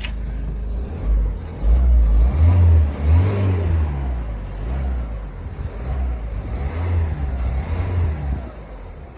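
A 2011 car's engine being revved, its pitch climbing and falling back a few times.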